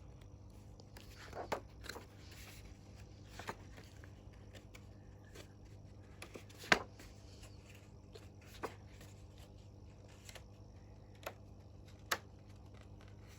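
Quiet room with a steady low hum and a few scattered short taps and rustles, the loudest about halfway through.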